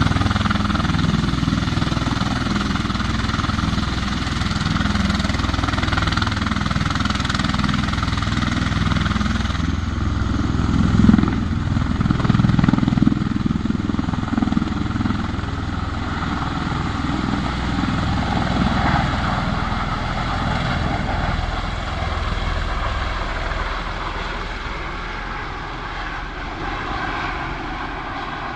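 Steady drone of a military vehicle engine, louder for a couple of seconds about eleven seconds in, then slowly fading.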